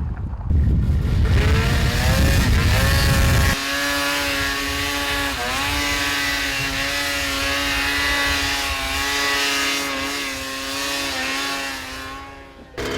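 A small two-stroke off-road engine, dirtbike or snowmobile, revving up and then held at steady high revs for several seconds, with one brief dip in pitch. It cuts off abruptly near the end.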